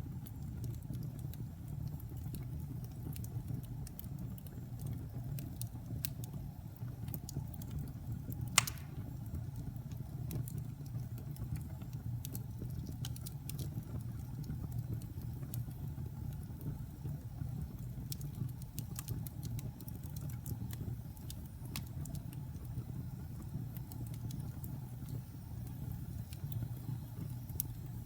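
Fire burning in a fireplace: a steady low rumble with scattered crackles all through and one loud pop about eight seconds in.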